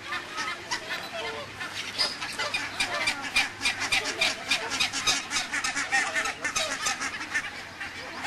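A flock of birds calling together: many short overlapping calls, several a second.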